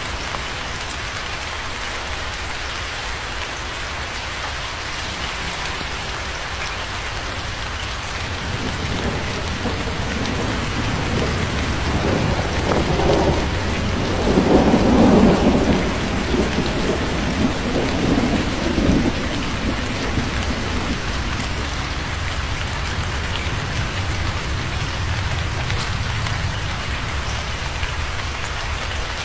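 Steady rain falling, with a roll of thunder that swells in the middle and rumbles on for several seconds before fading back into the rain.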